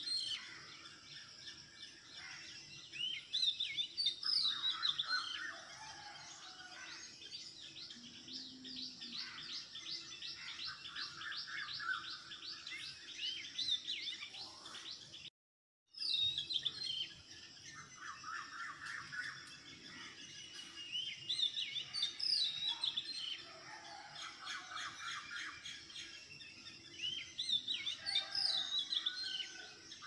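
Several birds chirping and trilling, with quick high calls and a fast run of repeated notes about ten seconds in. The sound cuts out completely for a moment about halfway through.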